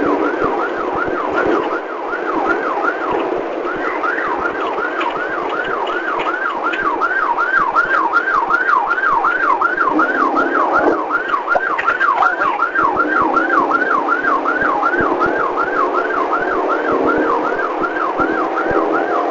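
Police siren in yelp mode, a fast rise-and-fall wail repeating two to three times a second, over a steady rushing noise.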